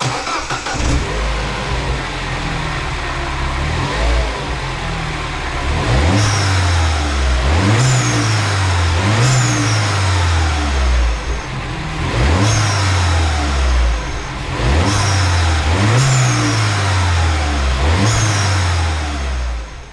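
Turbocharged Mini John Cooper Works engine, breathing through a newly fitted AEM intake, accelerating hard through the gears. The revs climb and drop back at each upshift, several times over, with a high whistle that falls away at each change.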